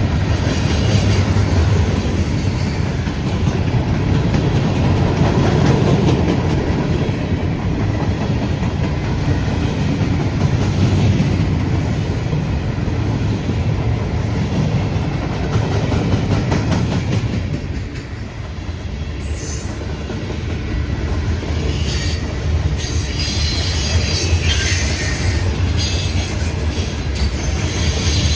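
Freight train cars rolling past, a steady rumble of steel wheels on the rails. From about two-thirds of the way through, high-pitched wheel squeals come and go over the rumble.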